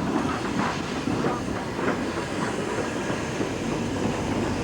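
Steam locomotive running with a train, a steady rumble with a regular beat about every half second from exhaust and wheels on rail joints.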